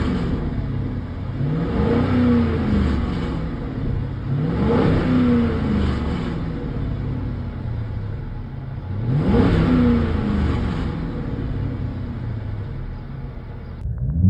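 Chrysler 300C's 5.7 HEMI V8 with its mid and rear mufflers deleted (straight-piped), idling and blipped three times, each rev rising and dropping back to idle.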